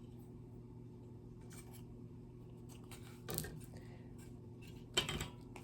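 Faint rustling and scraping of hands pressing dried reindeer moss onto a glued wooden birdhouse, with two brief louder handling noises, one a little past halfway and one near the end, over a low steady hum.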